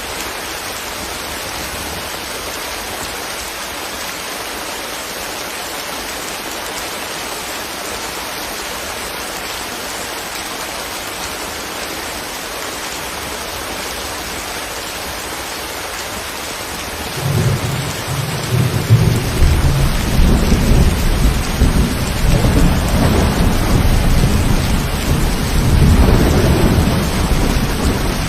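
Steady rain falling. About two-thirds of the way through, a long rumble of thunder rolls in, louder than the rain, and keeps rolling on.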